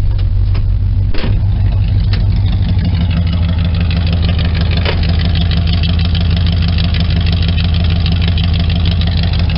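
Chevy 350 small-block V8 idling steadily through straight pipes, a tired engine that the owner says still runs great. A short sharp knock sounds about a second in.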